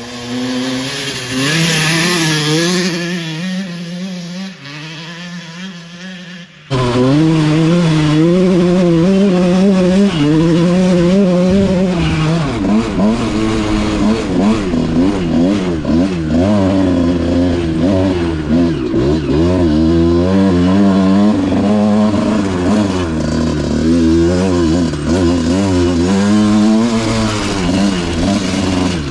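Dirt bike engine revving up and down as the bike rides a trail, its pitch rising and falling with the throttle and gear changes. About a quarter of the way in the sound cuts suddenly to a louder, closer engine that keeps revving hard and easing off.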